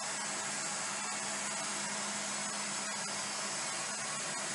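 Steady white-noise static hiss from a white noise device, with a faint low hum under it.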